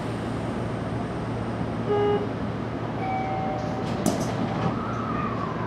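Steady low hum heard from the front cab of a Seibu commuter train. About two seconds in a short clear tone sounds once, followed by fainter thin tones and a whine that rises and falls.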